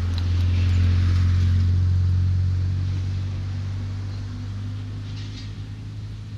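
A motor vehicle passing on a road, its low engine drone swelling in the first second or two and then slowly fading as it goes by.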